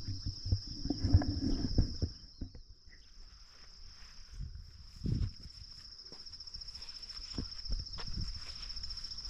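Insects trilling in a steady, high-pitched chorus, with irregular low thumps of footsteps on a path, heaviest in the first two seconds.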